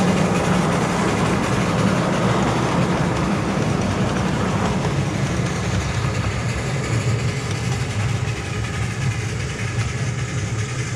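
Narrow-gauge train running on the track: a steady low drone under continuous rolling and rail noise, easing slightly toward the end.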